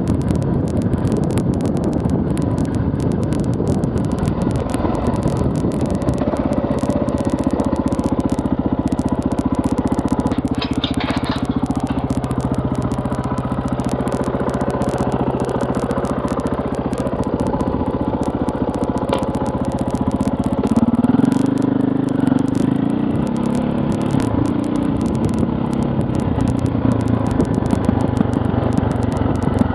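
KTM 450 EXC single-cylinder four-stroke enduro motorcycle engine running under way, with the revs rising and falling in the second half. A short clatter comes about ten seconds in.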